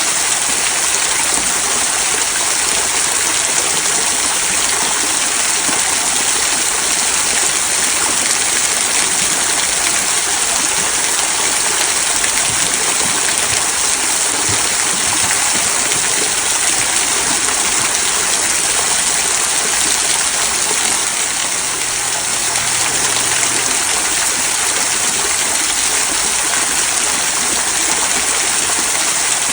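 Small rock waterfall trickling and splashing into a stream: a steady, even rush of running water.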